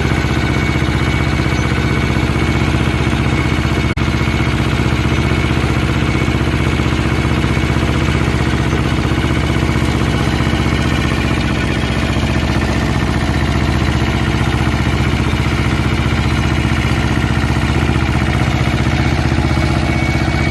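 Barbieri small tractor's engine running steadily under a flail mower setup, with an even, unchanging note and a single brief click about four seconds in.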